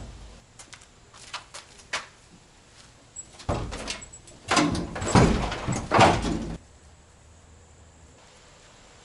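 Pickup truck bed with its mounting bolts cut out, being lifted on one side and shifted on the frame: a few light knocks, then about three seconds of loud metal clunking and rattling that stops suddenly.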